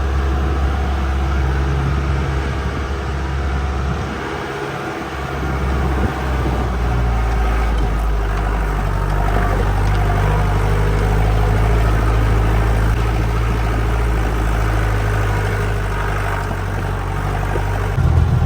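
Mahindra 4x4 jeep's engine running as it drives, a steady low drone. It eases off about four seconds in and picks up again a couple of seconds later at a slightly different pitch.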